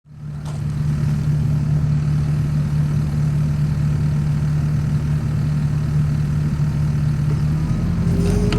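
Chainsaw mill's two-stroke chainsaw running at a steady high pitch, cutting lengthwise through a large log. It starts suddenly, and near the end the pitch shifts slightly.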